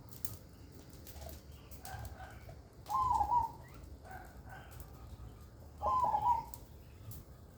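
Zebra dove (perkutut) cooing: two loud rolling coo phrases, each about half a second long, about three seconds in and again about six seconds in, with softer coo notes between them.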